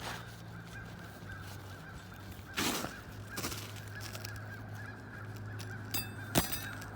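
Roofing work on asphalt shingles: a short scrape a little over two and a half seconds in, then two sharp metal clicks near the end, the second the loudest, over a steady low hum.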